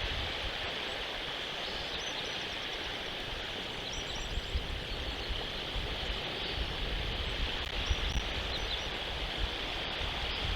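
Steady outdoor rushing noise from a nest camera's microphone, with low rumbles underneath and faint, short, high chirps scattered through it.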